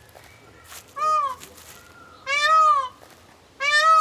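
Peacock giving loud, cat-like wailing calls, three in a row about a second and a bit apart, each rising then falling in pitch; the first call is shorter than the other two.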